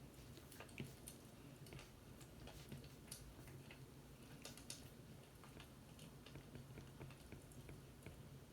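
Faint, irregular small ticks and clicks over a low steady hum.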